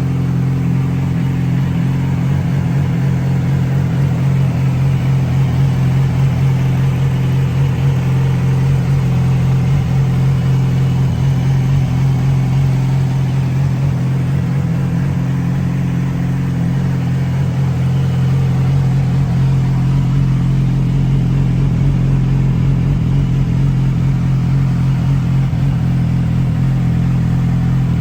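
2007 Yamaha YZF-R6's inline-four engine idling steadily through a GYTR exhaust with catalytic converter.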